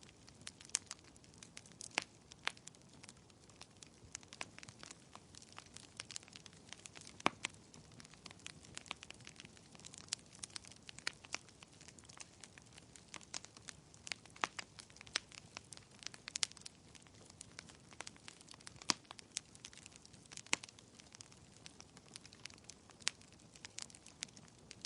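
Wood fire crackling in a fireplace: irregular sharp snaps and pops, several a second, over a soft low hiss.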